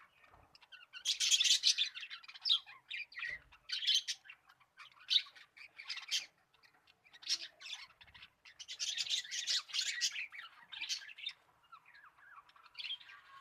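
Small pet parrots chattering and squawking in irregular harsh bouts, with short pauses between them; the busiest spells come about a second in and again about two-thirds of the way through.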